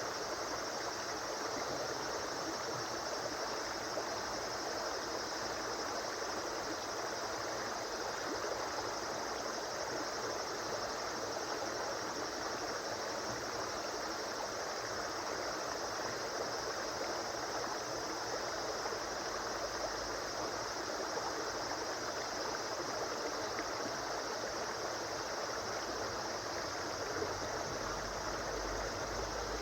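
A river or stream flowing steadily, its water rushing and babbling without a break.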